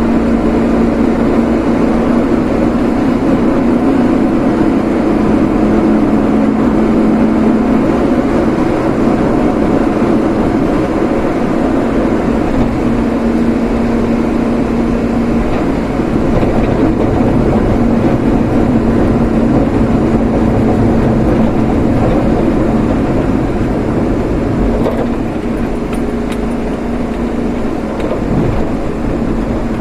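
Vehicle being driven: steady engine and road noise with a low hum that is strongest in the first half.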